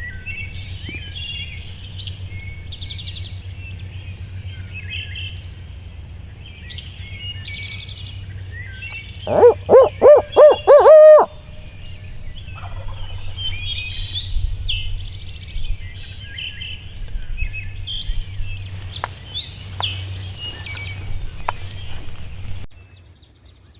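Dawn woods with songbirds chattering and wild turkeys gobbling. A very loud burst of about six hooting, pitched notes, the last one held, sounds close by around the middle, followed by more scattered calls.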